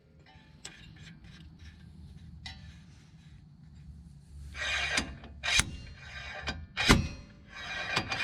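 Slide hammer on a bearing puller, pulling the old rear axle bearing and seal from a Ford 8.8 axle tube. Fairly quiet for the first four seconds or so, then the weight slides along the shaft and strikes its stop about four times, sharp metal knocks in the second half.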